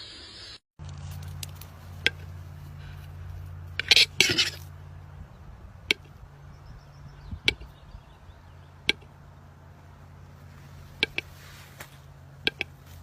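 Lovebirds in a cage: scattered sharp clicks and taps, with a brighter cluster of sounds about four seconds in, over a low steady hum.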